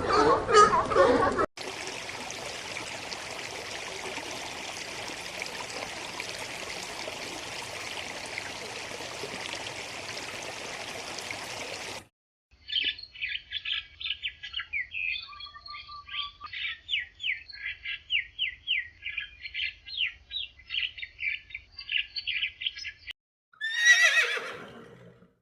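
A steady background hiss, then after a sudden cut a long run of rapid, high-pitched bird chirping. Near the end a single loud call falling steeply in pitch, a horse whinny.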